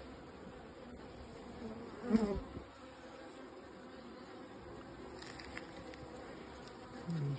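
Honeybees buzzing steadily around an open hive during a frame inspection. About two seconds in, a louder buzz sweeps past and drops in pitch.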